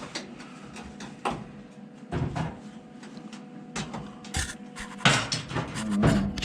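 Irregular knocks, clicks and scrapes of metal parts being handled and nudged into place on the Jeep's body, with a sharp knock about five seconds in as the loudest sound.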